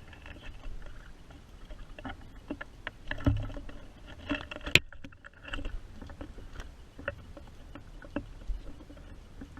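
Scattered, irregular light taps and clicks, with one sharp louder click about halfway through and a few low thumps.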